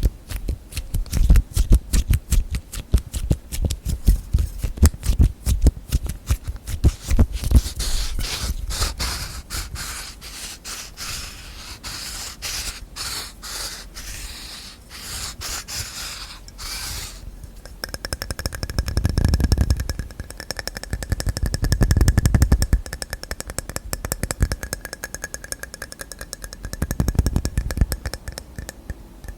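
Rapid finger tapping and scratching on containers and lids. In the first third the taps land as heavy, dull knocks. After that comes a hissier scratching stretch, and from a little past halfway the fast taps set off a steady ringing tone, as on a hard lid.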